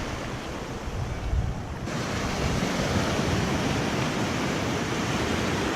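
Ocean surf washing onto the beach, with wind gusting across the microphone.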